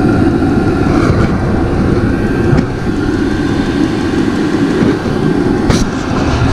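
Vevor 5 kW 12 V diesel air heater running: a steady, loud rush of its combustion-air intake and burner, heard close to the air intake as it draws air in.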